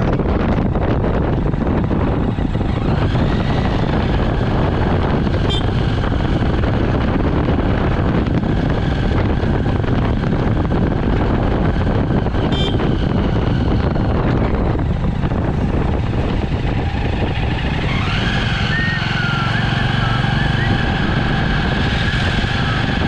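Jawa motorcycle engine running while riding, with wind rushing over a bike-mounted action camera's microphone. A whine rises and then holds steady about three seconds in, and again from about eighteen seconds.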